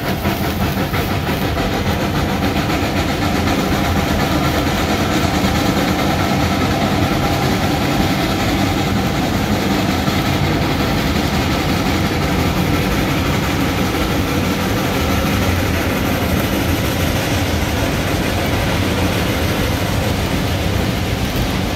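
Train running steadily: a loud, continuous rumble of engine and wheels on the rails, without let-up.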